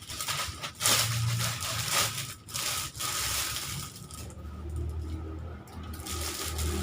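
Plastic snack wrappers and packaging crackling and rustling as they are handled, in irregular bursts, busiest in the first half. A low hum comes in during the second half.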